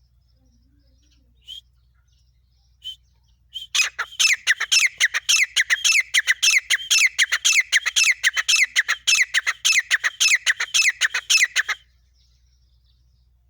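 Female francolin (teetar) calling. Two or three single short notes come first. Then, from about four seconds in, there is a fast run of loud, sharp, falling notes, about four a second, lasting some eight seconds before it stops abruptly.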